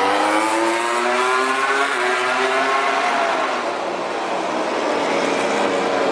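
MotoGP race motorcycle engine accelerating hard, its pitch climbing steadily for about three seconds before fading away. Another bike's engine starts rising near the end.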